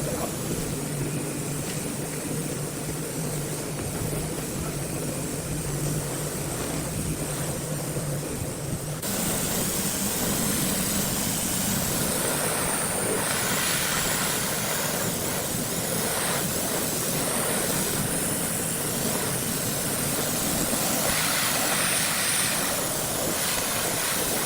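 Heavy machinery running steadily with a low hum. About nine seconds in, the sound switches abruptly to a louder, hissier machine noise.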